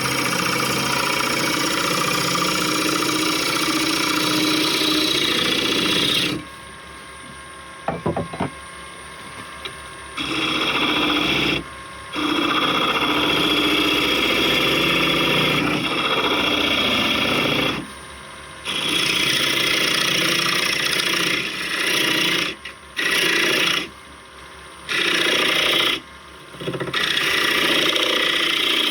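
Laburnum knob spinning on a wood lathe, worked down with a tool held against it: a steady scraping rasp in stretches of a few seconds, broken by short pauses, the longest about six seconds in.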